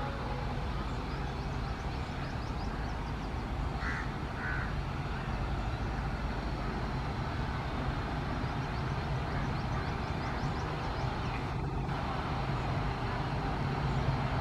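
Steady low rumble of a train running through a railway station, growing a little louder near the end, with faint high chirps or ticks over it.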